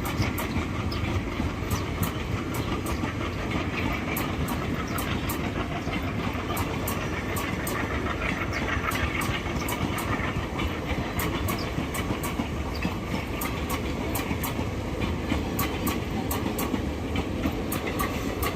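Indian Railways passenger train running along the track: a steady rumble with frequent irregular sharp clicks.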